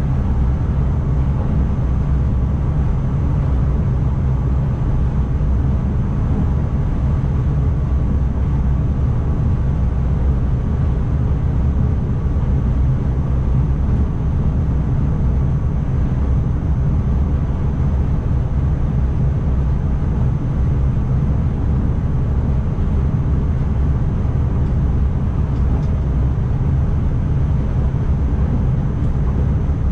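Steady low rumble inside the driver's cab of an NS ICMm electric multiple unit running along the line, with a faint steady whine above it.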